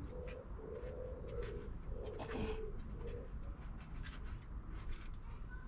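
A pigeon cooing: a run of low, rounded coos over the first three seconds or so, with a few faint ticks and knocks scattered through.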